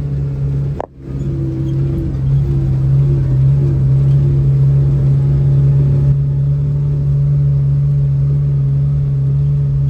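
Kawasaki Ridge side-by-side UTV driving along a dirt trail, heard from inside its closed cab: a steady engine drone over a low rumble. The sound cuts out for a moment about a second in, then resumes a little louder.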